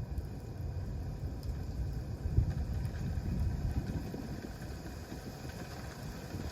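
Wood campfire burning: a low, fluttering rumble from the flames with faint scattered crackles, swelling briefly about two and a half seconds in.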